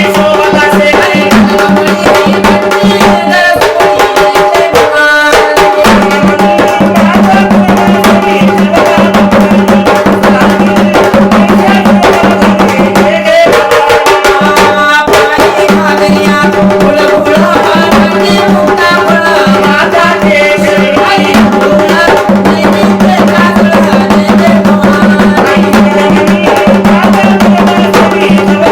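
Sambal, the Maharashtrian folk pair of stick-played drums, played in a fast, continuous stick rhythm that breaks off briefly twice.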